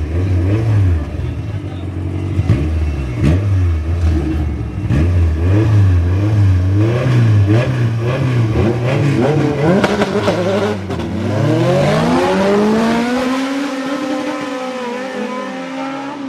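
Drag-racing cars revving repeatedly at the start line, engine pitch bouncing up and down, then launching about eleven seconds in: the engine note climbs steeply under full throttle as the cars accelerate away, then levels off and drops slightly.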